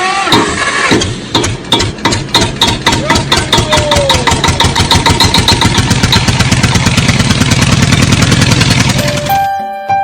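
An engine running with a rapid, regular chugging that quickens slightly, then stops about nine seconds in.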